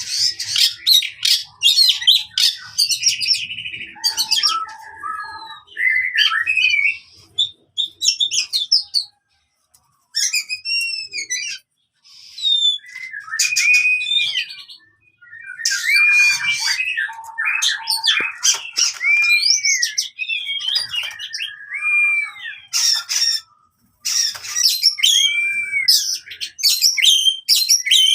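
Oriental magpie-robin (kacer) singing in the aggressive 'fighting' (tarung) style: quick, varied whistles, chirps and harsh notes in dense bursts, broken by a few short pauses.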